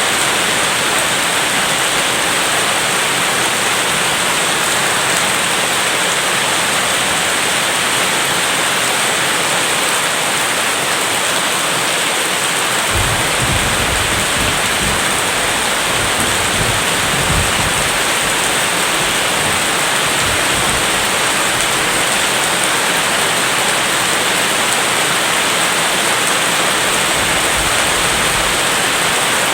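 Heavy rain as a steady, even hiss. Around the middle a low rumble of distant thunder rolls in for several seconds, and a shorter one comes near the end.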